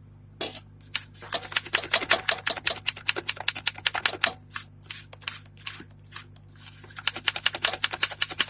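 Brush scrubbing a spot on a motherboard in quick back-and-forth strokes, about eight to ten a second. Two long runs of scrubbing with a stretch of scattered strokes between them: the area is being cleaned before it is reheated.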